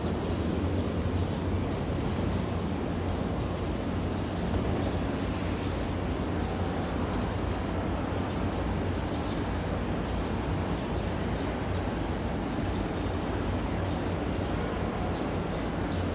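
Birds chirping in short, high, scattered calls over a steady low rumble of background noise.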